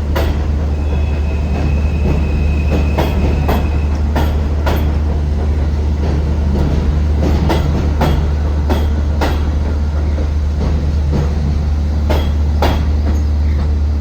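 R160 subway train running along the track: a steady low rumble with wheels clicking over rail joints, the clicks often coming in quick pairs. A thin high squeal is heard briefly in the first few seconds.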